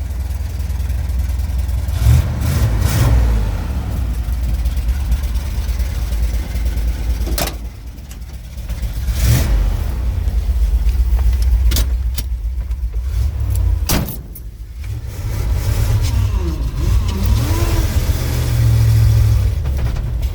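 1973 Ford pickup's engine running and being revved repeatedly, its pitch rising and falling, with dips back toward idle about eight and fourteen seconds in.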